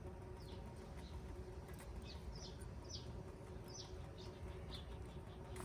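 A bird calling nearby in repeated short chirps that slide down in pitch, over a faint low steady rumble.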